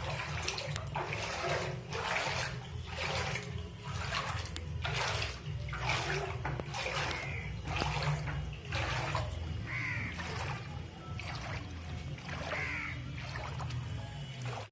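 Floodwater flowing and splashing in repeated surges about once a second, over a steady low rumble.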